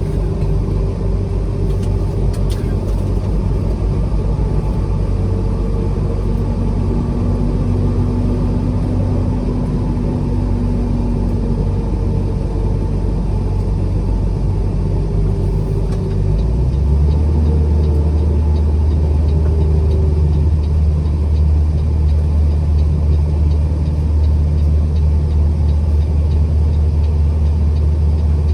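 Steady low engine and road drone of a truck being driven. About halfway through, the low hum steps up in pitch and grows a little louder, as the engine speed changes.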